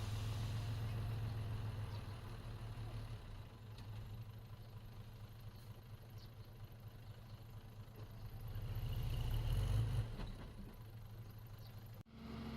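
Diesel engine of heavy earthmoving equipment running, swelling louder about nine to ten seconds in as it works harder, then easing off. The sound cuts out for an instant near the end.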